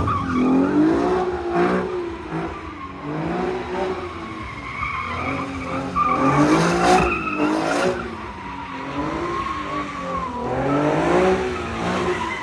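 A car doing donuts: its engine revs up and down again and again while the tyres squeal, with louder bursts of tyre noise a couple of seconds in and around the middle.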